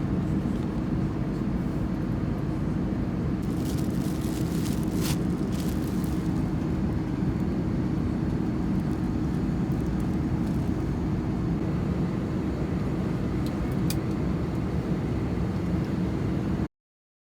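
Steady airliner cabin noise inside an Airbus A330-300: a constant drone of engines and rushing air with a low steady tone running through it. There are a few faint clicks and rattles, and the sound cuts off abruptly near the end.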